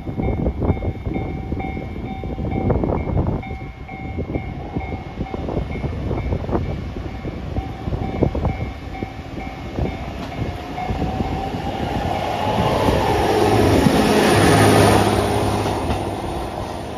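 JR Hokkaido H100 series diesel-electric railcar arriving and passing close by. Its motor whine rises and then falls in pitch as it goes past, over the low drone of its diesel engine. The sound builds to its loudest near the end and then eases.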